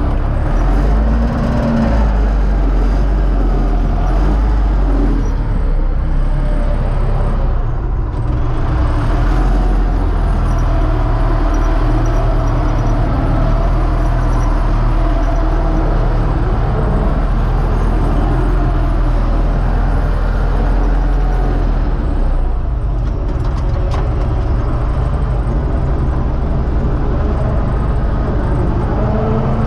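Universal U650 tractor's four-cylinder diesel engine running steadily while pulling a seed drill.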